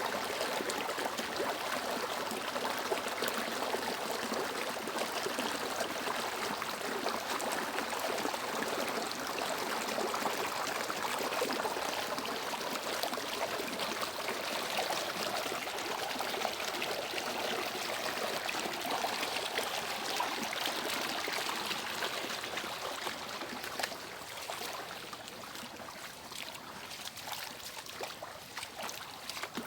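Water of a small cascade and stream running and splashing steadily over rocks, easing a little in the last few seconds.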